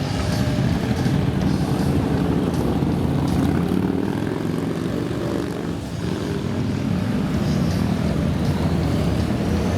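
Many motorcycle engines running together in a steady, dense drone as a column of motorcycles rides off.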